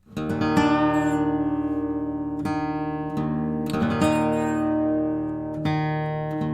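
Acoustic guitar music: strummed chords, a new strum about every second and a half.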